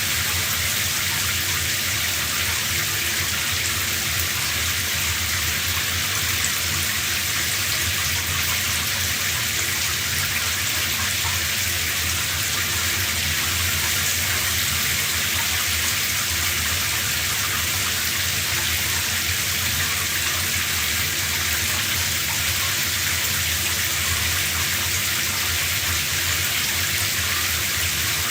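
Shower running: a steady spray of water falling, an even hiss that does not change.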